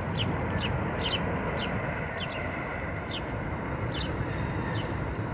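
A small bird chirping over and over, short high chirps that slide downward, often in pairs, about two a second. Under it runs a steady, even rumble.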